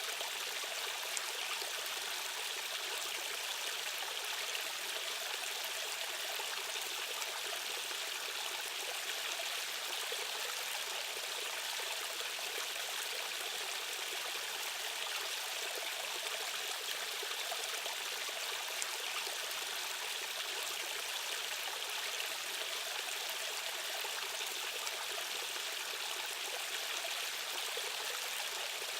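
Rushing water of a fast-flowing stream running steadily, with no breaks or changes.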